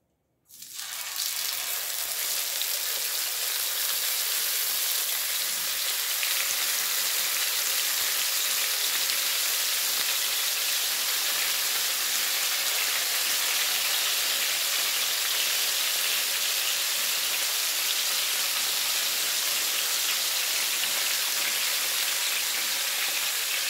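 Marinated chicken pieces sizzling in hot oil on a tawa: the frying hiss starts suddenly about half a second in as the first piece goes into the oil, then runs steady as more pieces are added.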